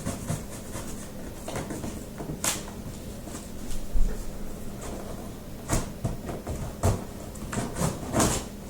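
Cardboard shipping box being opened and its packaging handled: irregular rustling and scraping with scattered knocks, the loudest about two and a half, six, seven and eight seconds in.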